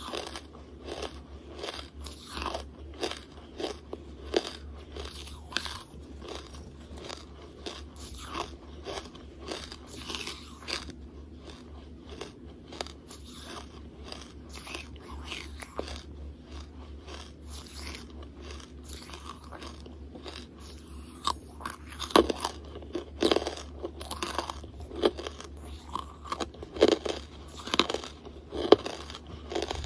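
Close-miked chewing of hard charcoal: a steady run of gritty crunches as the mouthful is ground down. The bites get louder and sharper about two-thirds of the way through.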